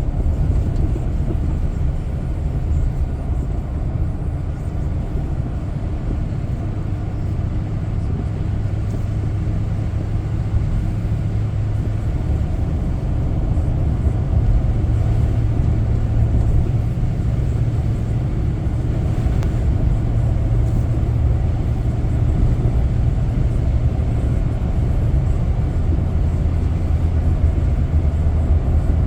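Car driving along a road, a steady low rumble of engine and tyres, growing a little louder about halfway through.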